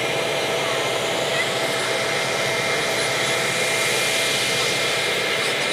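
Steady rushing noise of a train in motion, heard from on board, with a faint constant whine running through it.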